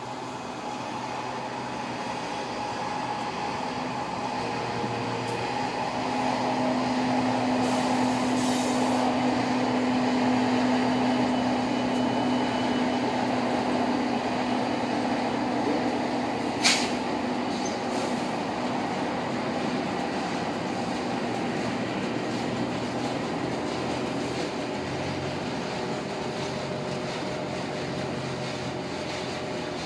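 Norfolk Southern diesel freight locomotives approaching and passing, engines running with a steady hum that swells as they go by, followed by covered hopper cars rolling past with steady wheel-on-rail noise. A single sharp bang about 17 seconds in.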